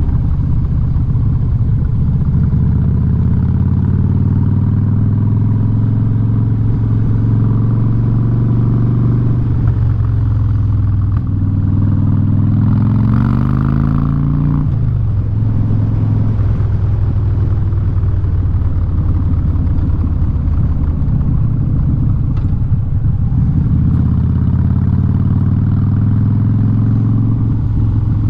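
Harley-Davidson V-twin with a loud Vance & Hines aftermarket exhaust running under way. The engine note rises for a couple of seconds midway through, then drops back sharply and settles into a steady run again.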